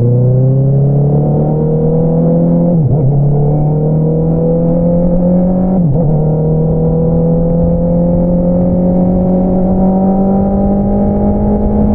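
Honda CBR650R's inline-four engine running through an Akrapovič single-outlet exhaust, pulling under throttle with its pitch climbing slowly. The note dips briefly twice, about three and six seconds in, then keeps rising.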